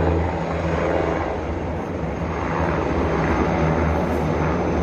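Tiger attack helicopter in flight, a steady low drone of turbine engines and rotor.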